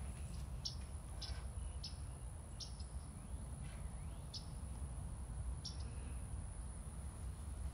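Small birds outside chirping: short, high calls repeated every half second to a second or so, over a steady low rumble.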